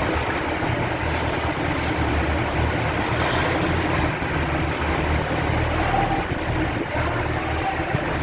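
Heavy machine's engine running steadily, a constant loud low mechanical noise.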